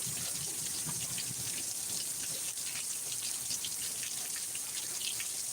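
Steady rain falling, with many small drips and splashes of water.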